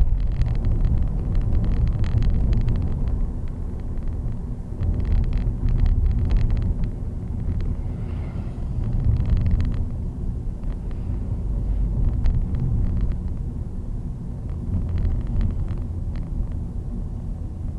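Low, steady motor-vehicle rumble with scattered knocks and rattles, like a vehicle driving along a road.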